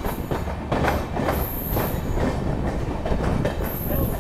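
Passenger train coaches running along the track, heard from the side of the moving train: a steady rumble of wheels on rail with irregular clickety-clack over the rail joints. A thin, high whine comes in twice, about a second and a half in and near the end.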